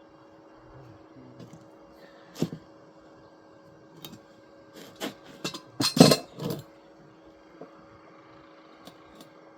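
Scattered sharp metallic clinks and knocks, as of hard metal parts being handled and set down. They come irregularly, with the loudest cluster about six seconds in, over a steady faint hum.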